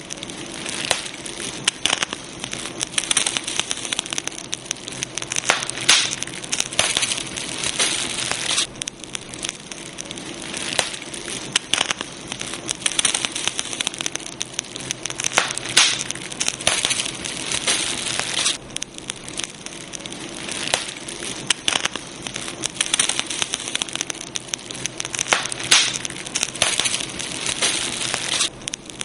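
Campfire burning: wood crackling with dense, irregular pops and snaps over a steady hiss.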